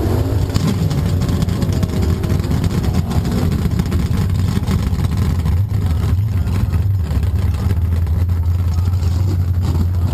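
Car engine idling with a steady, deep low rumble while the car creeps forward at a crawl.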